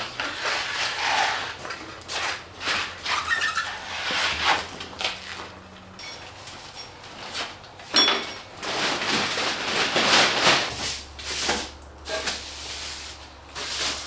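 Broom sweeping sawdust off surfaces: a series of irregular swishing strokes.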